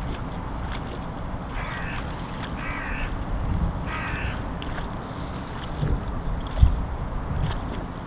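A bird gives three short, harsh calls about a second apart, over a steady low rumble, then a single low thump a few seconds later.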